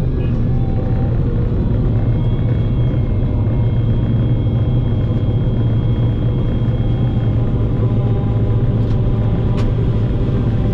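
An engine running steadily at constant speed, a loud low drone with no change in pitch.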